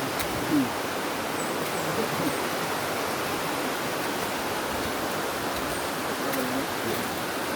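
Steady rushing of a river or stream, an even noise that stays level throughout.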